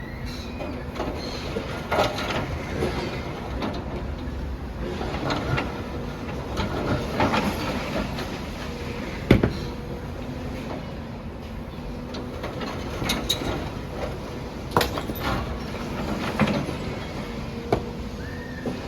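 Demolition excavator at work: its engine runs under a steady hum while masonry is crunched and debris clatters down in irregular bursts, the loudest crash about nine seconds in.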